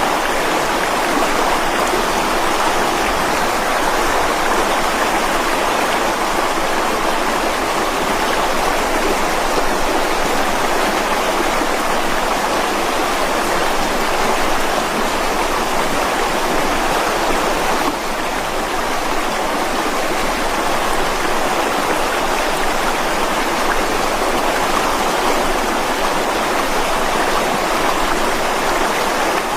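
Mountain stream flowing over rocks: a steady rush of running water with no break.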